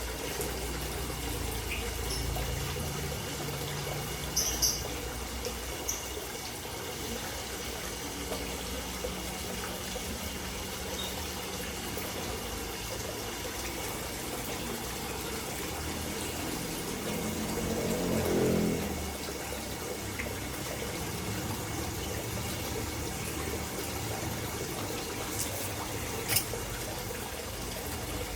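Water steadily trickling and splashing into a koi pond, with a few short clicks and a brief low swell of sound about two-thirds of the way in.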